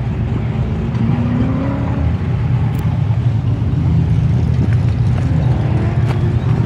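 Camaro's engine running hard as the car is driven through a cone course, its pitch rising about a second in as it accelerates.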